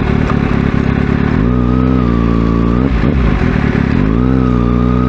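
Kawasaki Ninja ZX-6R inline-four engine running under way, recorded on the bike. The revs rise and hold steady twice, with a brief dip in pitch in between.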